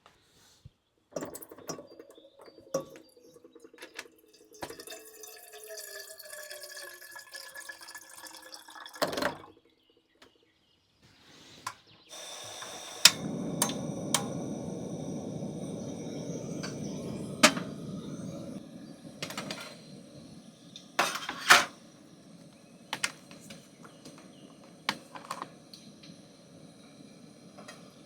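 Water pouring and splashing, with clinks and knocks of pots, dishes and utensils being handled. A steady stream of water runs from about twelve seconds in for several seconds, amid scattered sharp clinks.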